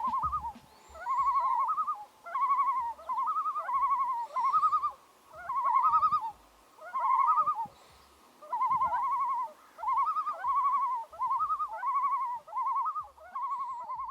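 Common loon calling: a series of quavering tremolo phrases that waver quickly in pitch, given in groups of two or three with short pauses between.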